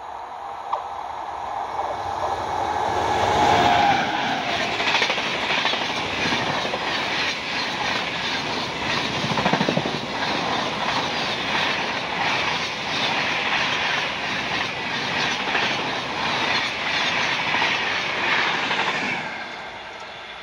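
Howrah Rajdhani Express passing close at speed. The rushing noise builds as it approaches, then the wheels clatter rhythmically over the rail joints as the coaches go by. It fades as the last coach passes near the end.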